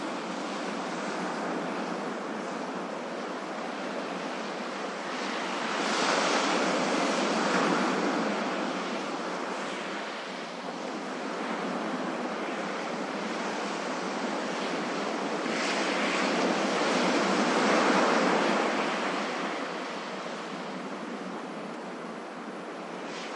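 Ocean waves breaking and washing in a steady hiss of surf, with two slow swells in loudness, the second and larger one about three-quarters of the way through.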